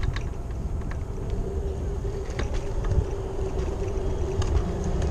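Lime electric rental scooter riding at speed: a steady motor hum over the low rumble of the wheels on pavement, with wind on the microphone and a few light rattling clicks.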